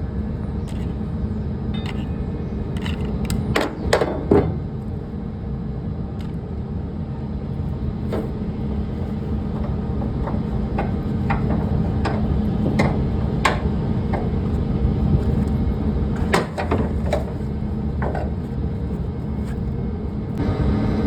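A steady low mechanical hum with scattered sharp knocks and clanks, the loudest a few seconds in and again at about two thirds of the way through.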